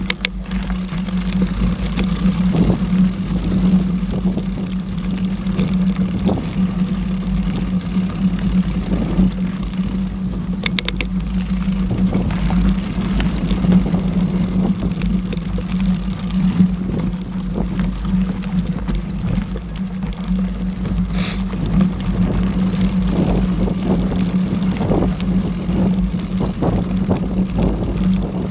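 Mountain bike rolling along a dirt trail, heard through the rider's camera microphone: a steady rumble of tyres and wind on the microphone, with scattered knocks and rattles from the bike over rough ground.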